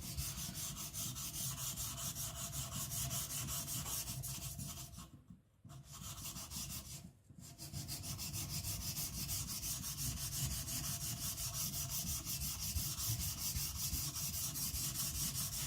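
A kiridashi's hard file-steel blade being rubbed back and forth on a coarse whetstone in quick, even strokes, grinding the bevel flat. The strokes stop briefly twice, about five and about seven seconds in.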